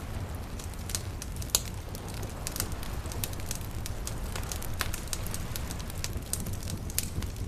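Wood fire crackling, with irregular sharp pops and snaps, one louder pop about a second and a half in, over a steady low rumble.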